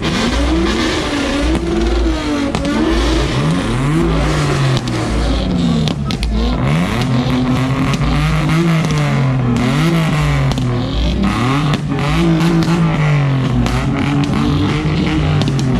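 Car engine being revved over and over, its pitch climbing and dropping back every second or two over a loud low rumble.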